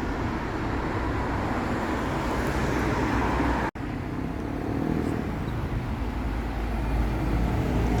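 A bus engine running as it approaches along the road, with steady traffic rumble that grows a little louder towards the end. The sound cuts out for an instant a little under four seconds in.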